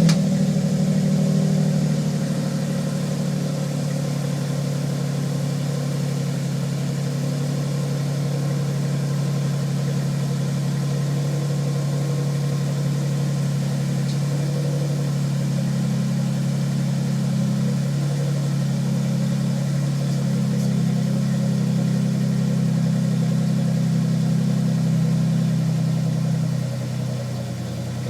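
2006 Ford F-150's 4.2 L V6 idling steadily through a new Flowmaster muffler and exhaust tip, just after a cold start. The idle drops slightly and gets a little quieter near the end.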